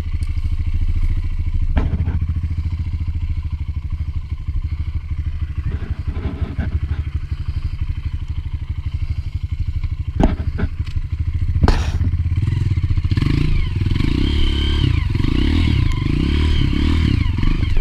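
Single-cylinder four-stroke dirt bike engine running at low revs, with several sharp knocks and clatter from the bike. In the last few seconds the revs rise and fall repeatedly.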